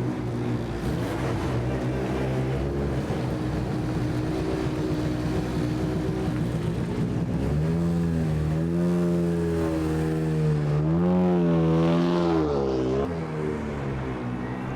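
Mini rally car engine idling, then revved up and down several times from about eight seconds in, and dropping back to idle near the end.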